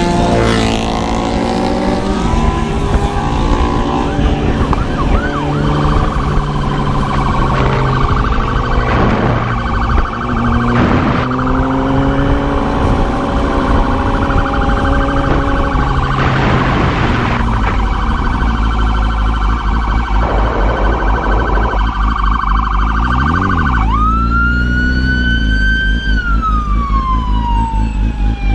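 Motorcycle engine running and changing speed, its pitch rising and stepping down through gear changes, then settling to a low steady beat. About four seconds from the end a police siren starts, a wail that jumps up sharply, falls slowly, and starts to rise again near the end.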